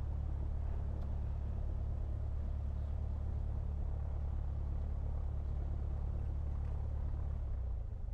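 Cessna 172's piston engine idling on the ground with a steady low drone, heard in the cabin after landing during the shutdown checklist.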